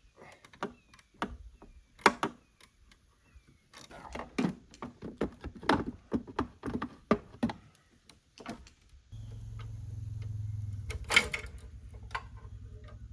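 Irregular metallic clicks and knocks of hand tools and parts being worked on. About nine seconds in, a steady low mechanical hum with a fast even pulse starts up.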